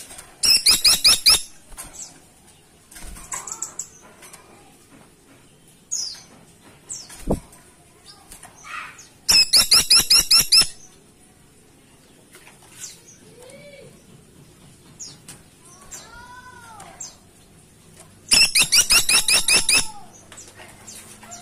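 Caladi tikotok woodpecker giving its rapid rattling call three times, each a burst of about a dozen quick high notes lasting just over a second, roughly nine seconds apart. Fainter calls of other birds sound between the bursts.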